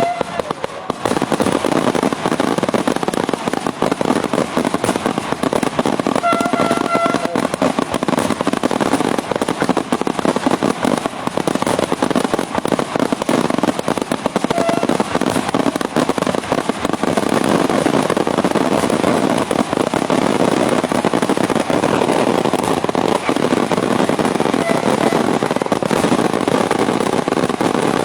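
Daytime fireworks barrage: a dense, continuous stream of rapid firecracker bangs and reports, so close together that they run into one unbroken crackling roar, with no pause.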